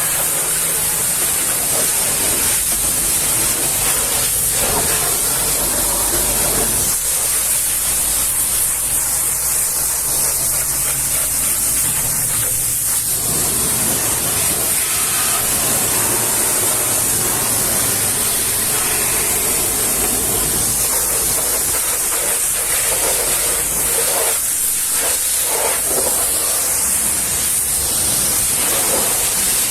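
Pressure washer spraying a vehicle in a steady, loud hiss, with a low steady hum underneath.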